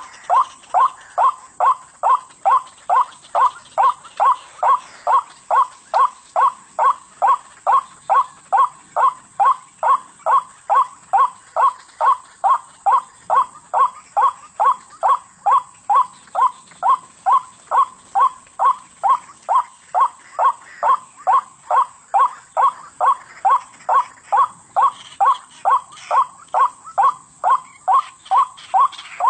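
White-breasted waterhen call: a steady, unbroken series of short 'wak' notes, about two a second.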